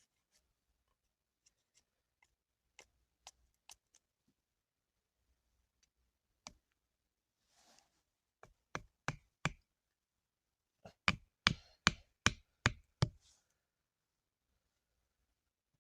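A series of sharp knocks: a few faint taps, then a run of about four louder knocks, then a quicker run of about seven, each a little under half a second apart.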